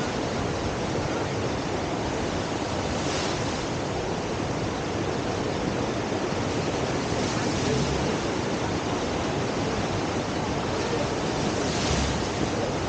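Steady rush of whitewater from a standing river surf wave, with brief louder splashes about three seconds in and near the end.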